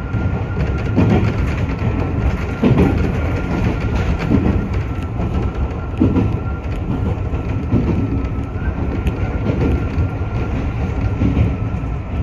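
Iyo Railway 3000 series electric train running along the track, heard from inside the car: a steady rumble with a clack of the wheels over rail joints every second or two, and a thin steady high tone.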